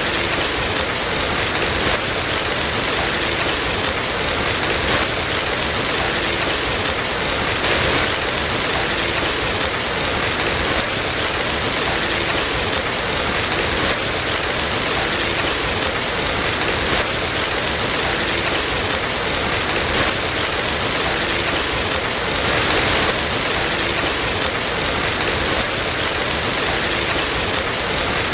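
Steady rain falling in an even hiss, with a few faint scattered clicks.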